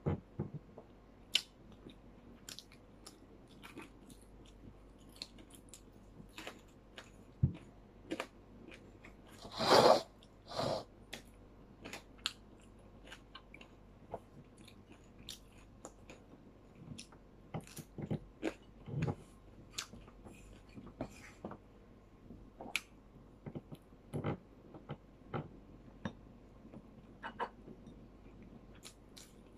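A person eating with her hands, chewing fried milkfish and rice close to the microphone, with many small scattered clicks and taps of fingers and food on a plate. A louder, noisier burst comes about ten seconds in.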